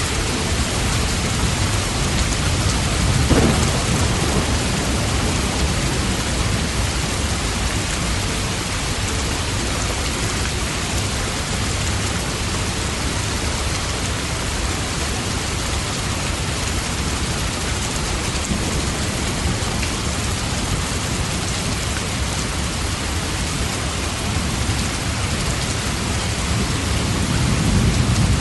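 Steady, dense rainfall. Low rumbles swell up about three seconds in and again near the end.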